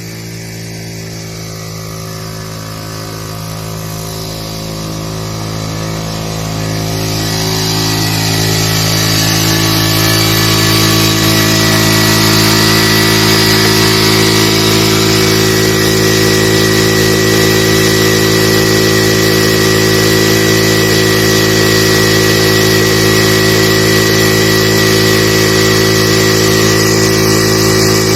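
Honda CD 70's single-cylinder four-stroke engine running steadily while driving a tubewell pump. It grows louder over the first ten seconds or so, then holds at a steady, loud running note.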